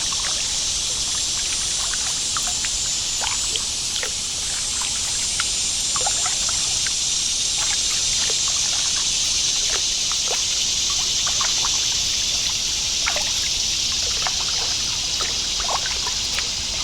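Steady hiss of flowing creek water around a kayak, with scattered small splashes and drips from paddle strokes.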